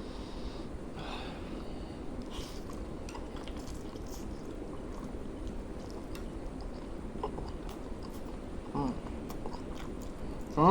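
Steady fan noise with faint chewing and lip-smacking from eating noodles, and a short pitched sound about nine seconds in.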